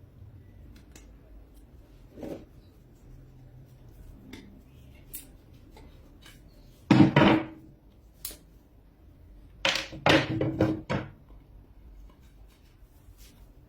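Handling noises from a broom being mended: scattered light clicks and a knock, then two loud scraping, rustling spells about 7 and 10 seconds in.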